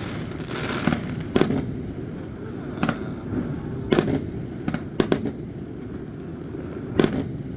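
Fireworks going off: sharp bangs every second or so, about six in all, over a steady rumble and crackle of further bursts.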